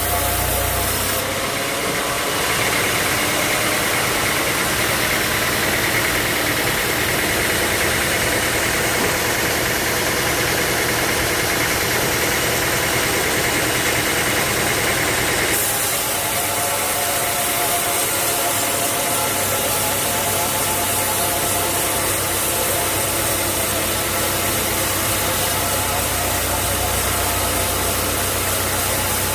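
Sawmill machinery running steadily, a machine hum with noise over it. Its tone changes about a second in and again about halfway through.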